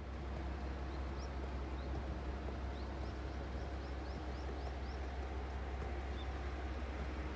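A small bird chirping in a quick run of about a dozen short, high, rising notes for a few seconds, over a steady low rumble.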